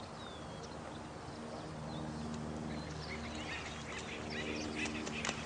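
Night nature soundscape: birds calling in short, gliding chirps that thicken into a busy chatter in the second half, with a few sharp clicks near the end, over a steady low hum.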